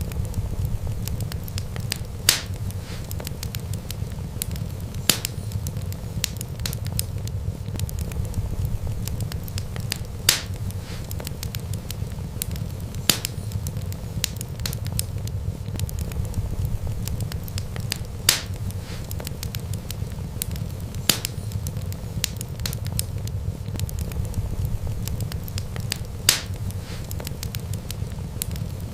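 Wood fire crackling: a steady low rumble of flames under many small ticks, with a sharp louder pop every three to five seconds.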